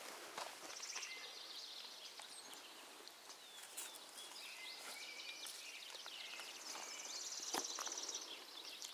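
Small birds singing and chirping in the background, a mix of short trills and buzzy high notes that grow busier in the second half, with a single sharp knock late on.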